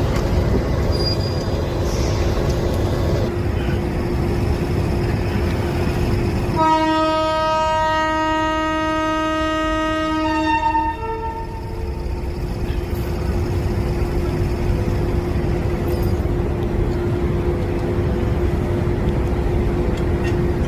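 Train running with a steady rumble and hum, and a locomotive horn sounding one long blast of about four seconds roughly a third of the way in.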